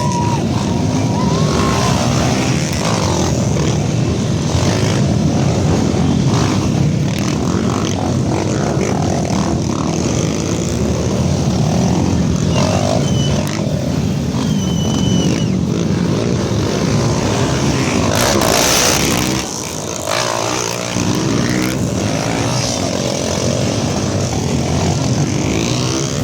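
Many off-road trail motorcycle engines running and revving together as the bikes are set off, with engine pitches rising and falling. A brief loud rush comes just before two-thirds of the way through.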